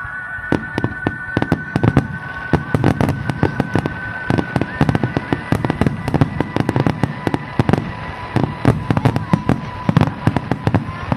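Fireworks display: aerial shells bursting in a dense barrage of sharp bangs, several a second.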